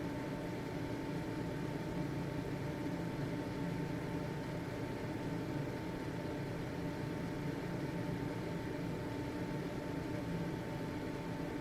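Household ventilation fan running steadily: an even motor hum with a thin, steady whine over it and a soft rush of air.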